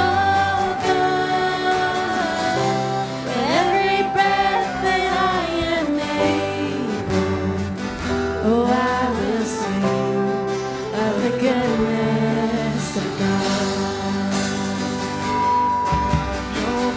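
Live worship music: a slow worship song sung over a band with guitar, the singing continuing through the chorus.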